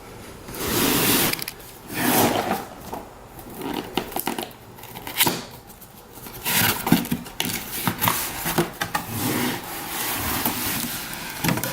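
A large cardboard kit box being opened and its contents handled: irregular bursts of sliding and rustling, each a second or so long, with short pauses between.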